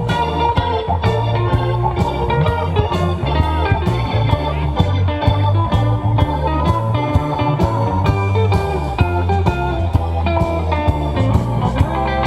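Live rock band playing an instrumental passage: electric guitar lines over bass and a steady drum beat.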